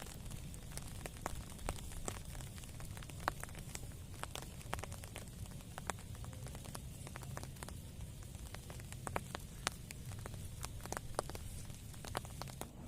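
Wood fire crackling, with sharp irregular pops over a steady low rumble of rain and wind.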